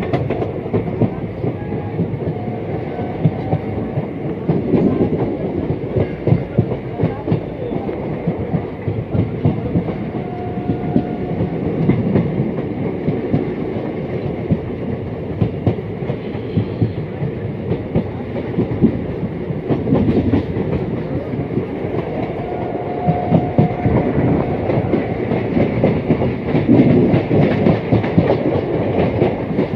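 Indian Railways train running along the track, heard from the open doorway of the coach: a steady rumble with rapid clickety-clack of the wheels over the rails.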